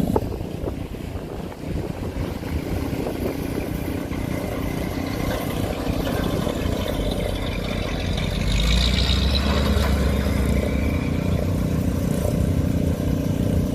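Car engines rumbling as cars drive out one after another; one passes louder from about eight seconds in.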